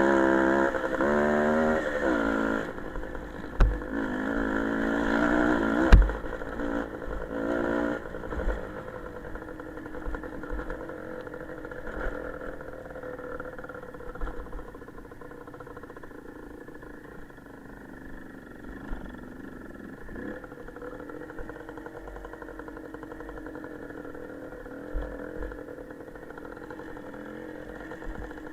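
Small motorcycle engine revving up and down for the first several seconds, with two sharp knocks, then running steadily and more quietly.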